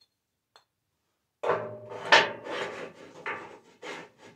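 Firebricks scraping and rubbing as they are fitted into a wood stove's firebox. The scraping starts about a second and a half in, in several strokes, the loudest about two seconds in.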